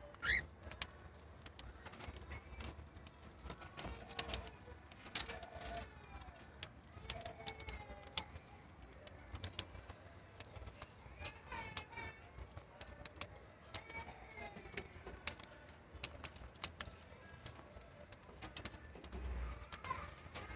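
Cockatiels chirping and warbling with short whistled calls, amid frequent sharp clicks and taps.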